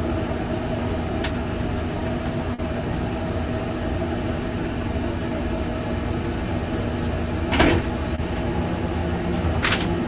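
Steady machine hum of food-trailer equipment, with a low drone and a couple of held pitches. It is broken by a short clatter about seven and a half seconds in and another near the end.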